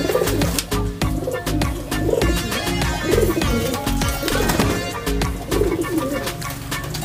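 Domestic pigeons cooing, one low warbling coo after another about every second, over background music.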